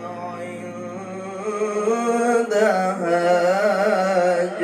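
A male Qur'an reciter chanting melodically, drawing out the end of "al-muntahā" in a long, wavering, ornamented line, then starting "ʿindahā" about three seconds in.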